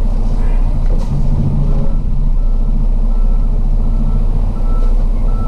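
Heavy truck's Detroit Diesel DD15 engine running with a steady low drone. From about two seconds in, a faint beep repeats roughly every three-quarters of a second.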